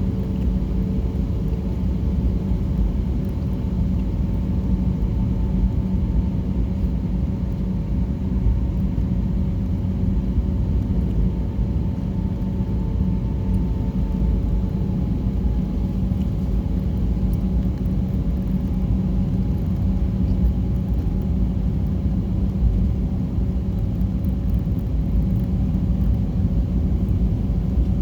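Jet airliner cabin noise: a steady rumble of engines and airflow with a constant low hum and higher tones, one of which drifts slightly lower about halfway through.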